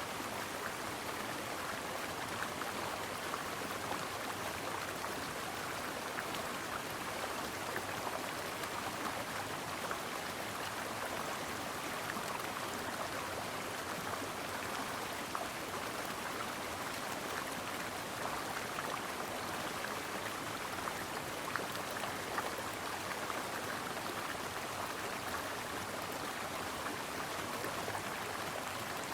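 A brook running steadily over stones, a continuous splashing babble of flowing water.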